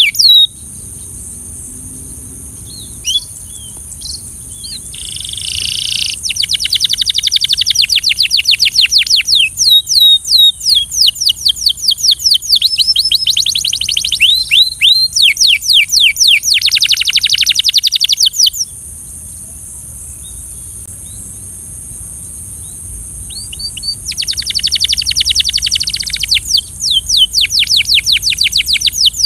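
Belgian canary singing in long, fast trills of rapidly repeated high notes, in two bouts with a pause of several seconds between them.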